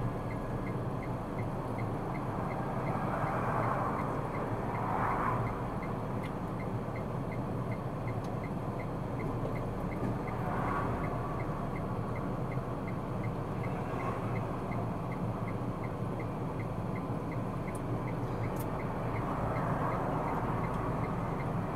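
Car cabin noise while driving: steady engine and tyre noise, with a faint regular ticking about twice a second.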